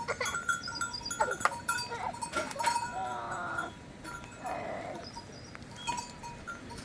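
Flock livestock bleating, with a long wavering bleat about two and a half seconds in and another shorter one near the middle, over the steady ringing of animal bells.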